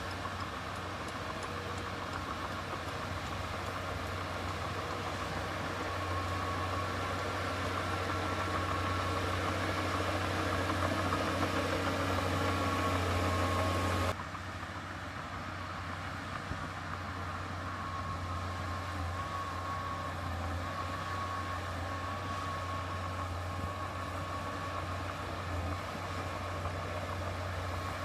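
Heavy diesel engine of earthmoving machinery running steadily with a low hum. About halfway through, the sound drops suddenly in level and changes character, then carries on steadily.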